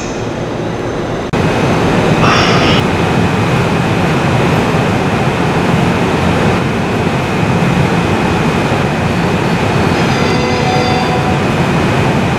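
Train running through the station, a loud steady rumble of wheels and motors that jumps suddenly louder about a second in, with brief higher-pitched squeals near two seconds and again near the end.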